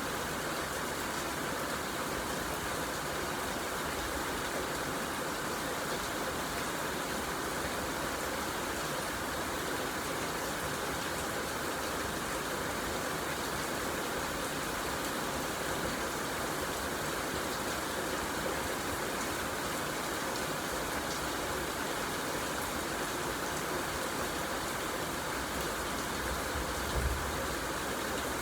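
Steady rain falling, an even unbroken hiss. A brief low thump comes near the end.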